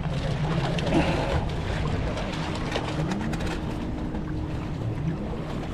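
Steady low drone of a motorboat engine running on the water, with a faint higher hum joining about two seconds in.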